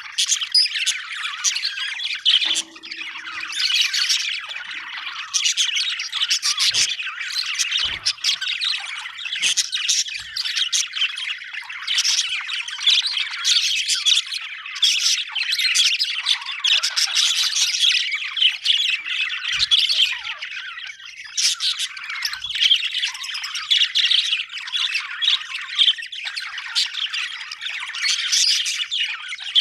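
Budgerigars chattering: a dense, unbroken mix of short overlapping calls and warbles from several birds, with a few soft knocks.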